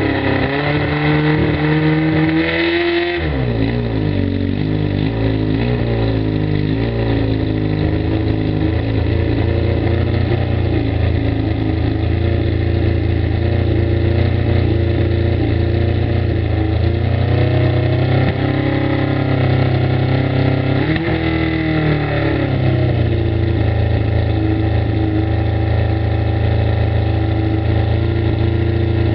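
Suzuki GSX-R750 inline-four motorcycle engine running on its first startup with the choke jammed on, very rough. Its revs drop about three seconds in, hunt unevenly for a few seconds, then settle into a steadier idle, with a brief rise and fall about two-thirds of the way through.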